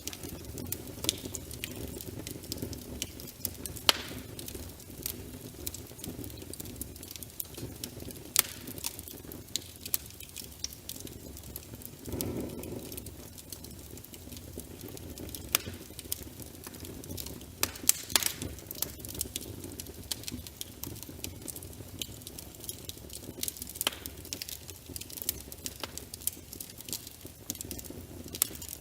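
Fire in a fireplace crackling: a low steady rumble of flames with frequent, irregular sharp pops and snaps.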